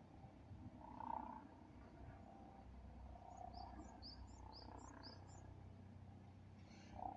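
Faint outdoor background with a low rumble. About halfway through, a small bird gives a quick run of about six short, high chirps.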